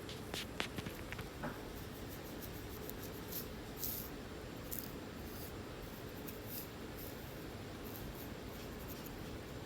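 Scratching and picking at a flaky, scaly scalp, lifting dandruff flakes: short, scattered scratchy ticks, bunched in the first second or so and a few more near the middle, over a steady faint hum.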